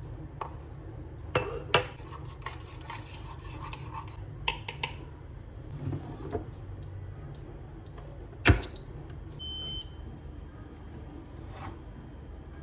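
Kitchen handling: dishes and utensils clinking and knocking a few times, with one loud sharp knock past the middle, over a steady low hum. Several short high beeps sound between the knocks.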